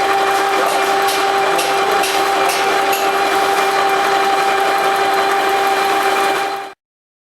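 Twin alpha-type Stirling engine running steadily with a constant whine and mechanical clatter; the sound cuts off suddenly near the end.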